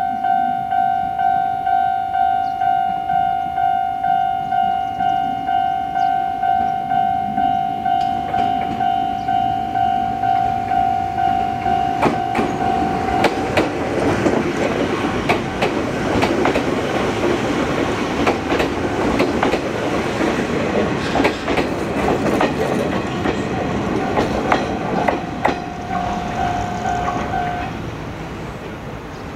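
Japanese railway level-crossing alarm ringing about twice a second. Then an Izuhakone Railway Sunzu Line 3000-series electric train rolls past, its wheels clattering over rail joints. The clatter fades and the alarm stops near the end.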